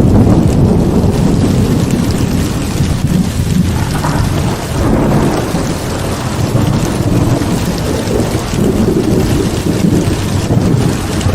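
Heavy rain pouring in a thunderstorm, with low rolling thunder rumbling under the steady hiss of the rain.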